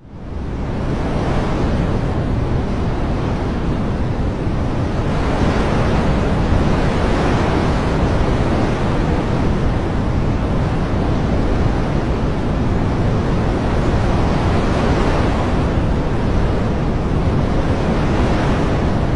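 Steady, dense rushing nature-ambience noise of water or wind, swelling and easing every several seconds. It drops out briefly at the very start and fades back in over about a second.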